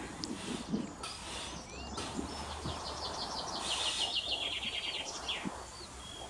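Small songbirds singing in open farmland: scattered short whistled notes, and about halfway through a quick run of rapidly repeated high chirps lasting a second or so.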